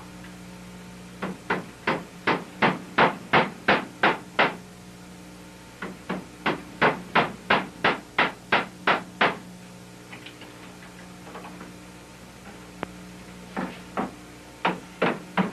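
A hammer driving nails through the steamed short ribs into the canoe's stem. It strikes in two runs of about ten steady blows, roughly three a second, with a few more blows near the end.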